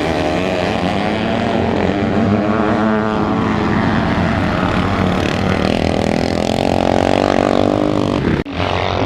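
Motocross motorcycle engines revving hard as bikes race on the track, several engines overlapping with pitch rising and falling through gear changes and passes. The sound drops out abruptly for a moment near the end.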